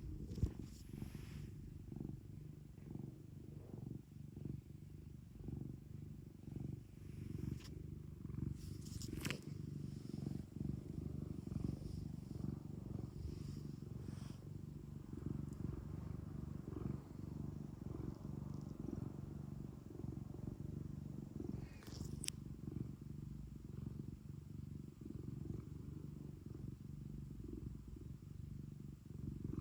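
Domestic cat purring steadily in a fast, even low rumble, close to the microphone. A few brief clicks are heard over it, one at about nine seconds and another at about twenty-two seconds.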